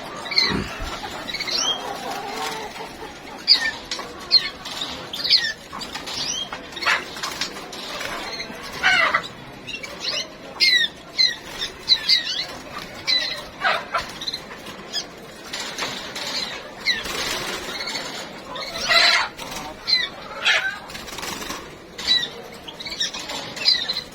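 Small cage birds (canaries and goldfinches) making many short, high chirps scattered through the whole stretch, with wings fluttering.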